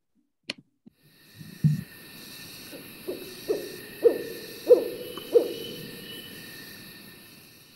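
Recording of a mottled owl (Ciccaba virgata) singing a series of about five low hoots, 'wow wow wow WOW wow', growing louder to the fourth and then falling off, over a steady high hiss of night background. A single click comes about half a second in, as playback starts.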